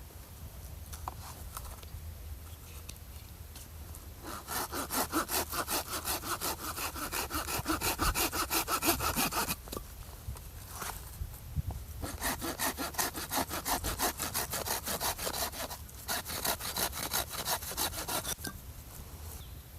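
Hand saw cutting through firewood in rapid back-and-forth strokes, in two runs: the first starts about four seconds in, and the second follows after a pause of about two seconds.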